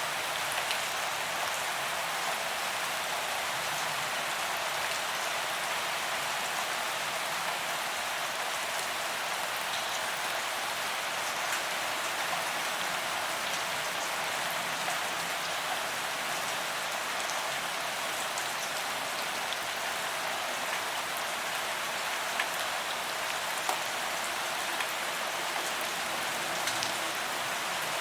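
Steady rain falling on a paved promenade, with scattered individual drops pattering on the pavement.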